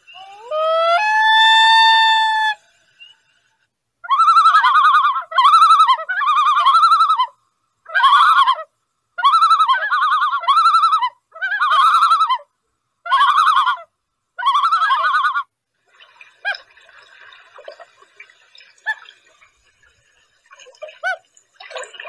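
A bird calling. It gives one long note that rises and then holds near the start, then a series of about ten repeated calls, each half a second to a second long, with fainter calls near the end.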